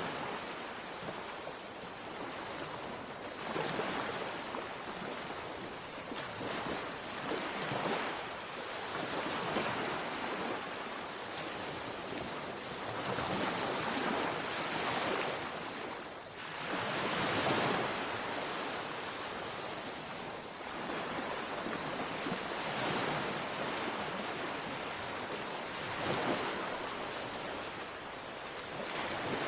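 Sea waves washing onto a shore, each surge swelling and falling back every few seconds.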